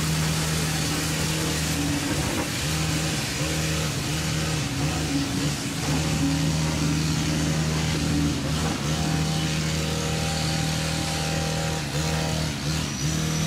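Heritage passenger train pulling out of the station: a steady engine drone with rolling noise as the coaches pass.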